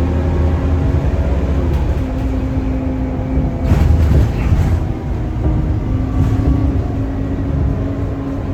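Scania K230UB city bus's five-cylinder diesel engine running under way, with a steady drone whose pitch steps about two seconds in, and a brief clattering noise about three and a half seconds in.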